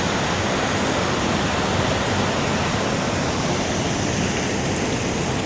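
Steady rush of flowing water after heavy rain.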